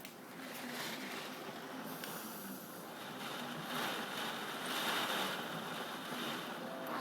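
Strong typhoon wind gusting, a rushing noise that swells and eases, loudest about four to five seconds in.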